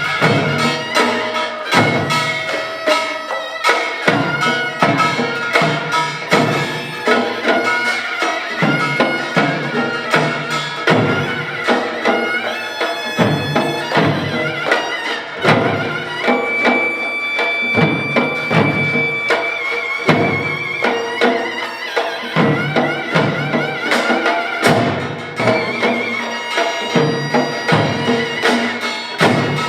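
Korean pungmul ensemble playing: drums and gongs strike a dense, driving rhythm under a nasal reed melody, likely the taepyeongso shawm, with one long high note held for a few seconds a little past the middle.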